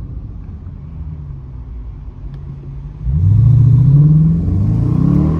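A car engine runs at a low steady rumble, then about three seconds in it revs up hard with a rising pitch as the car accelerates, before easing back to a steadier drone.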